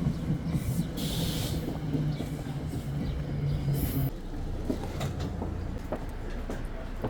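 Commuter train running: a steady low rumble with a low hum that drops away about four seconds in, and a brief hiss about a second in.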